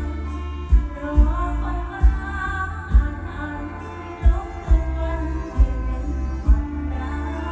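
A woman singing a Thai mor lam song over a live band, with a heavy bass and a regular kick-drum beat.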